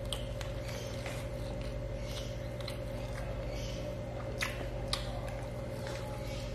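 Close-miked chewing of a mouthful of rice and curry (nasi padang), with repeated wet mouth sounds and two sharp clicks a little past the middle, over a steady low hum.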